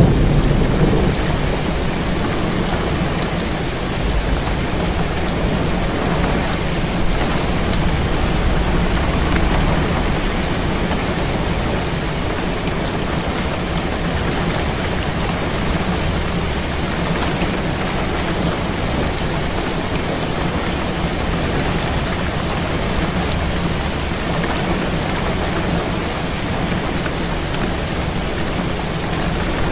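Heavy rain hitting a window in a dense, steady hiss, with low rolls of thunder in the first ten seconds or so.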